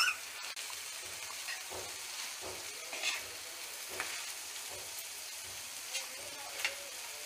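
Boiled goat intestines frying in oily masala on a flat tava, with a steady sizzling hiss. A steel spatula stirs them, giving several short taps and scrapes against the pan.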